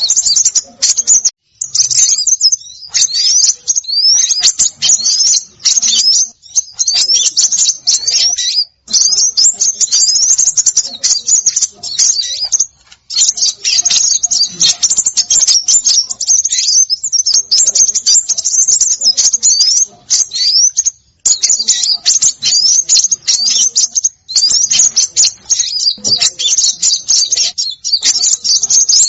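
Bird-lure recording of small songbirds calling in a busy, continuous chatter: rapid, high, upward-sweeping chirps packed close together, broken by brief pauses every few seconds.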